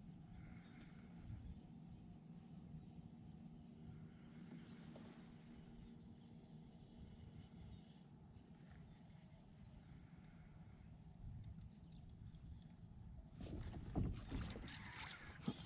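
Faint low rumble of water and wind around a fishing kayak, with a thin steady high-pitched tone throughout. A few sharp knocks come near the end.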